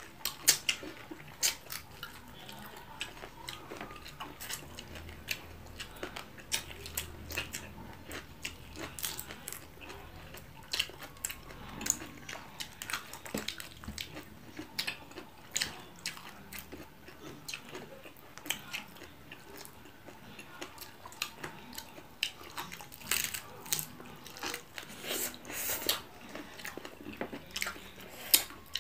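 Close-miked eating sounds: chewing and frequent sharp crunching as crispy fried tilapia and raw vegetables are eaten by hand, one irregular crunch after another.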